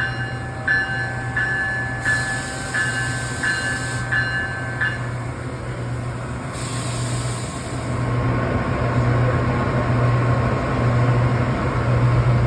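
Train standing with its engine running: a steady low hum, a ding repeating about every 0.7 seconds for the first five seconds, and two short bursts of air hissing.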